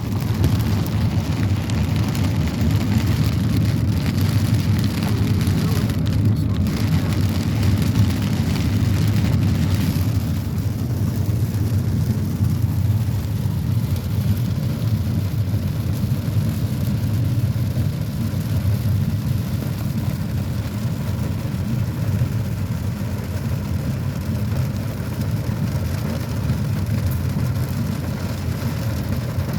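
Heavy rain in a thunderstorm: a steady, dense noise, heaviest in the low end, easing slightly after about ten seconds.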